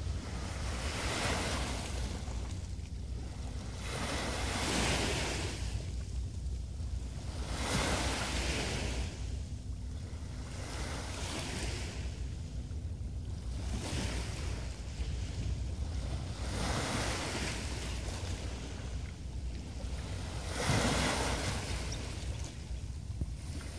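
Small waves breaking and washing up on a beach shore, one wash every three to four seconds, over a steady low wind rumble on the microphone.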